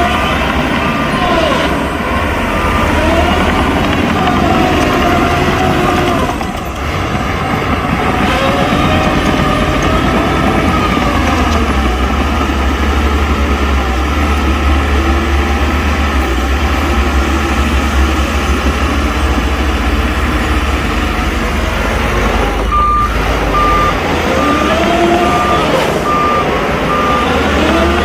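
Heavy diesel earthmoving machines (dump trucks and a bulldozer) running with a deep engine drone. A reversing alarm beeps steadily, about two beeps a second, for the first second or so and again through the last five seconds.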